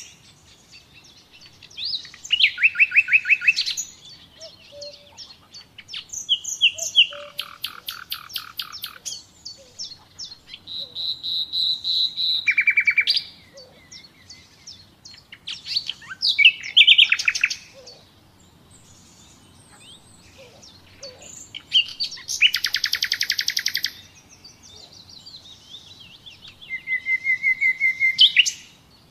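Common nightingale singing: about six varied phrases of rapid repeated notes, trills and clear whistles, separated by short pauses.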